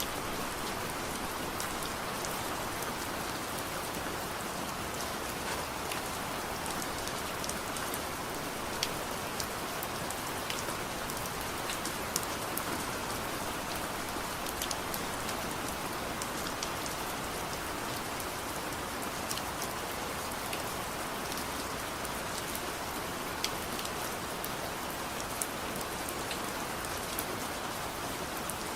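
Steady soft rain falling, with scattered sharp crackles from a wood fire in a fireplace.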